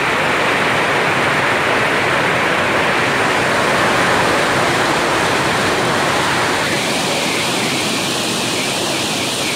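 Heavy rain mixed with hail pouring down, a loud, steady, dense hiss that changes in tone about seven seconds in.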